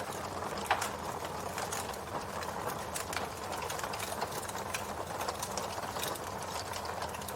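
Campfire crackling steadily, with irregular small pops and snaps over a soft hiss; one louder pop comes just under a second in.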